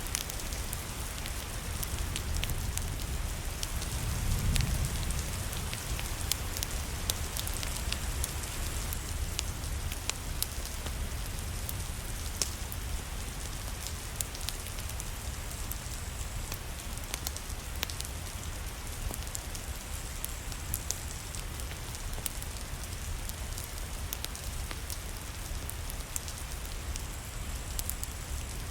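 Steady rain falling, mixed with the scattered sharp pops and crackles of a wood fire burning in a fireplace. A brief low rumble swells about four seconds in.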